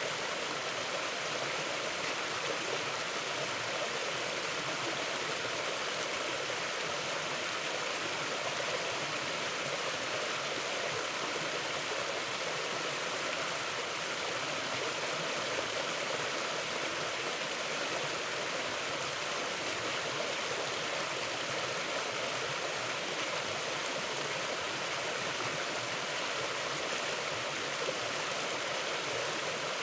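Mountain river flowing, a steady even rush of water over rocks.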